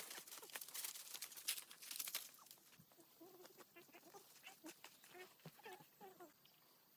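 Quick clicks and knocks for about the first two seconds, then a run of short calls from farm animals, each bending in pitch.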